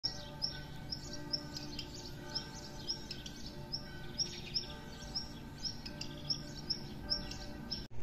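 A small bird chirping repeatedly, two or three short high chirps a second, over soft background music with sustained tones.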